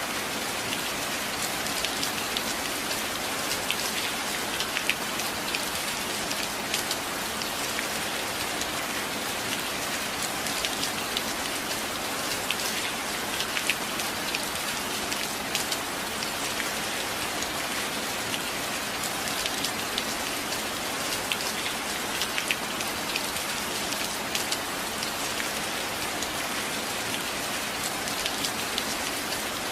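Steady rain, with many small drop impacts ticking sharply through an even hiss.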